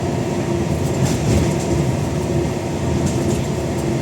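Scania N94UD Omnidekka double-decker bus heard from on board while under way: a steady engine and drivetrain rumble with a constant whine, and light rattling from the body.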